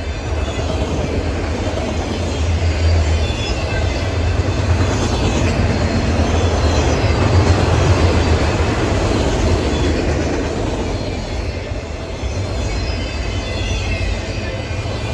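A CSX freight train passing close by: a steady rumble of wheels on rail that swells toward the middle and eases a little near the end.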